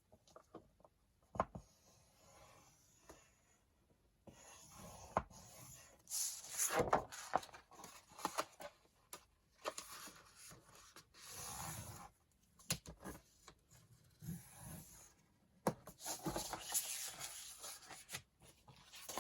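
Sheets of paper being handled and folded: irregular rustling and sliding swishes with scattered light taps and clicks.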